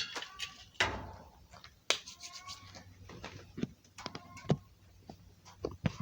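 Clanks and knocks of hands and tools working on a bicycle, several sharp single knocks spread out, with a few short squeaky higher-pitched sounds in between.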